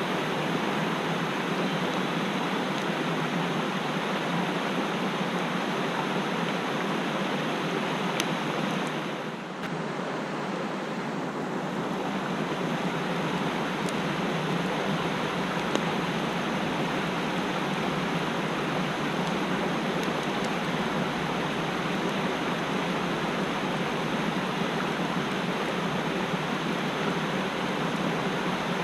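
Mountain stream rushing over rocks, a steady even flow of water, with a brief dip in level about ten seconds in.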